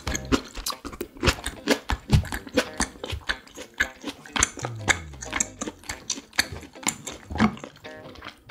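Close-miked chewing of chop steak and bell peppers: a rapid run of wet mouth clicks and smacks, several a second.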